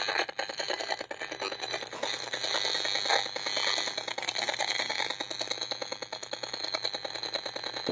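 Safe & Sound Pro 2 RF meter's speaker rendering a pulsed radio signal as sound: a rapid, continuous crackling rattle of pulses with a steady high whine over it. The owner takes it for a Frey-effect or voice-to-skull beam aimed at his head.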